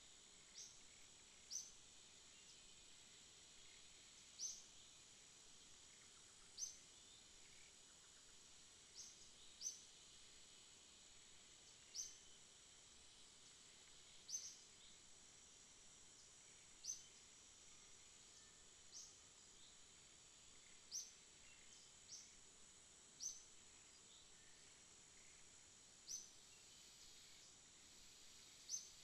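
Faint jungle ambience: a steady high-pitched insect drone, with a short, sharp rising chirp repeating every two to three seconds.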